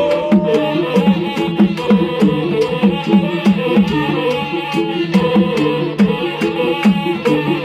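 Batak gondang bolon ensemble playing: the sarune bolon's reedy melody over rapid patterns on the tuned taganing drums, with a steady beat of sharp metallic strikes.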